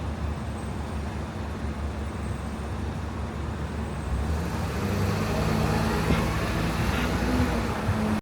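Steady city traffic noise with a low rumble, growing a little louder about halfway through.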